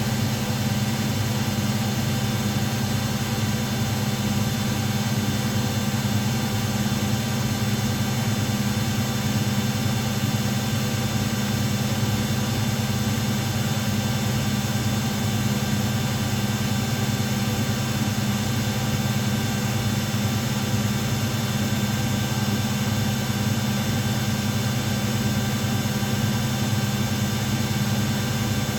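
Washing machines running with a steady, even hum and a set of constant whining tones, unchanged throughout.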